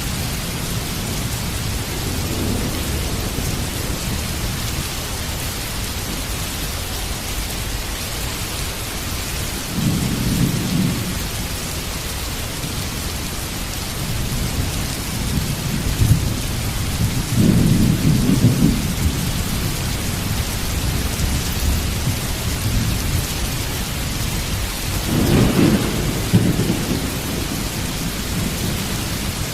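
Heavy rain falling steadily, with rolls of thunder rumbling low several times: about ten seconds in, twice more around the middle, and a strong roll near the end.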